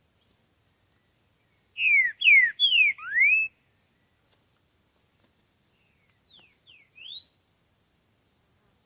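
Green-winged saltator (trinca-ferro) singing: a loud phrase of four clear whistled notes, three sliding down and the last sliding up, then a softer shorter phrase ending on a rising note a few seconds later. A faint steady high insect buzz runs underneath.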